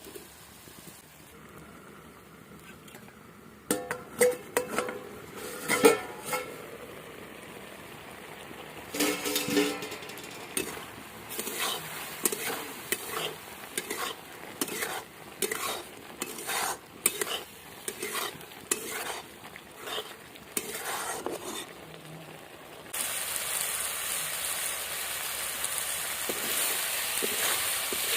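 A metal spoon stirring and scraping in a cooking pot, with irregular clinks and scrapes. About two-thirds of the way through, a steady sizzle of food frying in hot oil starts suddenly and keeps going.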